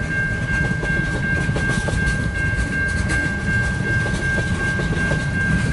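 Freight cars of a long CN mixed freight train rolling past: a steady low rumble with irregular clicks of wheels over the rail joints, and a steady high tone throughout.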